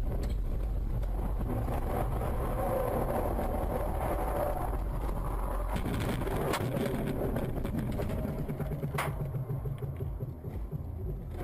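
Steady road and engine noise of a moving car, with two short sharp clicks, one past the middle and another a couple of seconds later.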